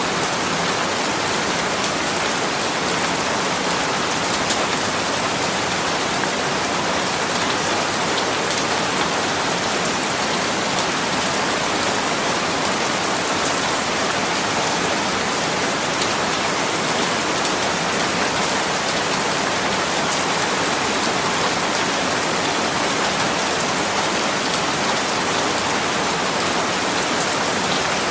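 Steady rain falling, an even hiss with many small drop ticks and no thunder or other events.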